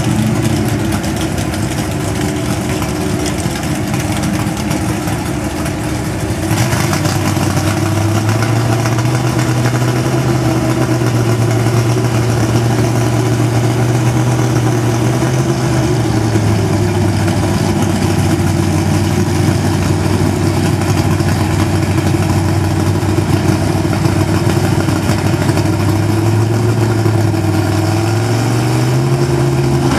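Drag-race car engines idling loudly at the start line. Their pitch steps up about seven seconds in, drops back around sixteen seconds, and rises again near the end as the cars stage.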